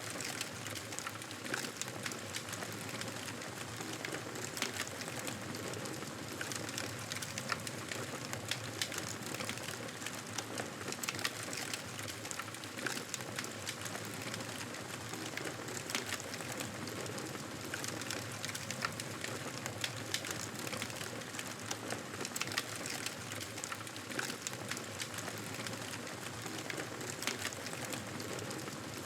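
Wood fire crackling steadily, with frequent sharp pops and snaps over a constant hiss.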